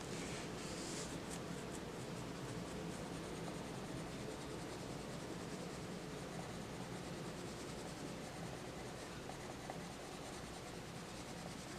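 Coloured pencil scratching on a colouring-book page in quick short shading strokes, clearest in the first few seconds, over a steady background hiss.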